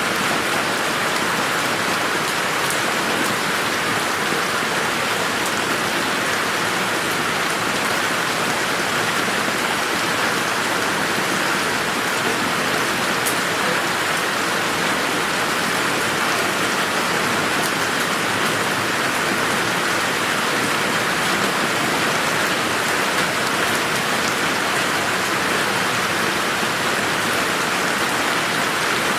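Steady rain falling on a garden, an even hiss with scattered faint drop ticks.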